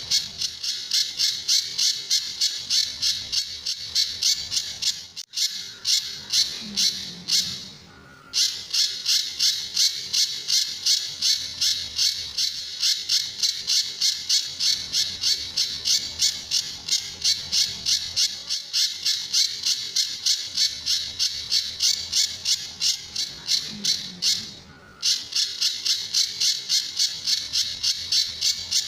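Pijantur bird calling a rapid string of sharp, high notes, about three a second, with short breaks. This is the bird's characteristic 'tembakan' and 'besetan' song used as a training call for other songbirds.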